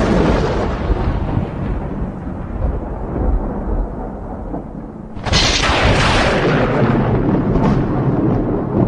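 Thunder rumbling and slowly dying away, then a fresh, sharp thunderclap about five seconds in that rolls on.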